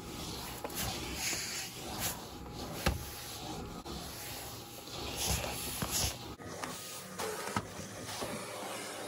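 Household handling sounds: rubbing and rustling, with scattered light clicks and knocks.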